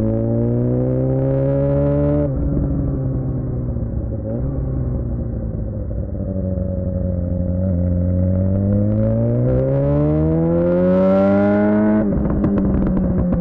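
2007 Suzuki GSX-R600 inline-four through a Yoshimura R11 exhaust, pulling up through the revs, then shutting off sharply about two seconds in and the revs sagging. It climbs through a long rising rev sweep again and cuts off abruptly near the end, followed by a few short crackles on the closed throttle.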